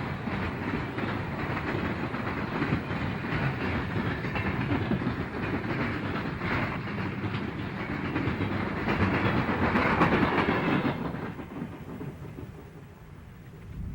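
Freight train rolling past, its wheels clicking over the rail joints. It gets loudest about ten seconds in, then fades away quickly.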